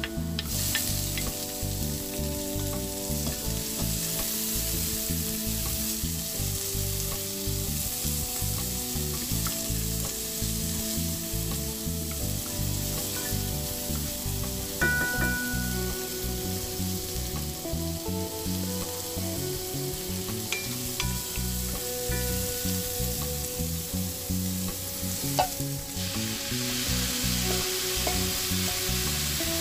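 Minced garlic and diced red pepper sizzling in hot oil in a pot, stirred with a wooden spatula, with a few sharp knocks of the spatula against the pot. Near the end the sizzle grows louder as boiled water spinach goes into the pot.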